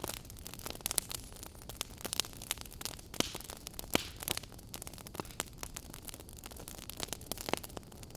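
Wood fire crackling, with a steady hiss and irregular sharp pops and snaps, a few louder ones about a second in, around three and four seconds in and near the end.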